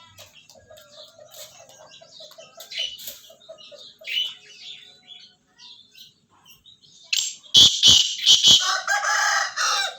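Aseel rooster clucking softly in a rapid run, then beating its wings loudly several times and crowing about nine seconds in.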